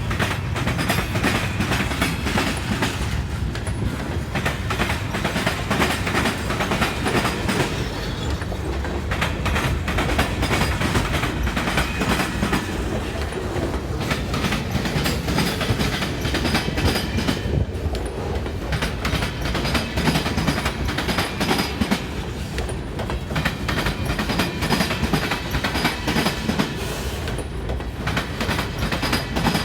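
Freight train cars rolling along the rails: steady wheel clatter over rail joints, with dense clicks and clanks.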